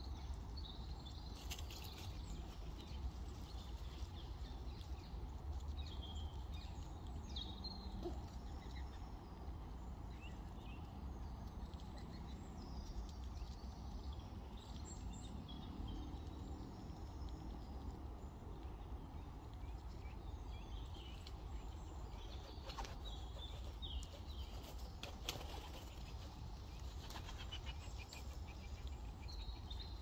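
Small birds chirping here and there, short high calls scattered throughout, over a steady low rumble, with a few brief rustles or taps near the end.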